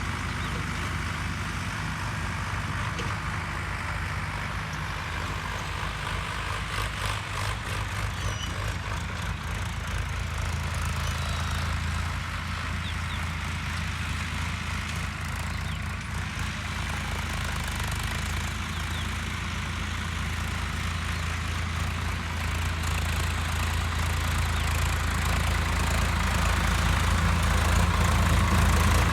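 Farm tractor's diesel engine running steadily while dragging soil with a karaha scraper, growing louder over the last few seconds.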